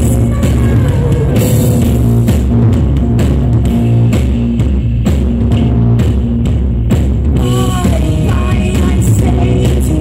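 A rock band playing live and loud, with a drum kit, a sustained bass line and guitar. A voice sings briefly about three-quarters of the way through.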